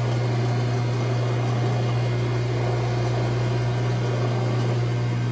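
Milling machine running steadily with a constant low hum while power tapping a 1/2-inch threaded hole in steel plate.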